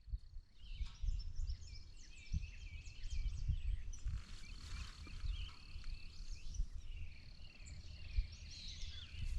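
Several wild birds chirping and trilling in quick overlapping calls, with an uneven low rumble beneath.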